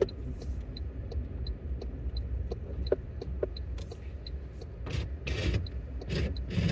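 Inside the cab of a pickup truck driving on a snow-covered road: a steady low rumble of engine and tyres, with a light ticking about three times a second and a few short swishes in the second half.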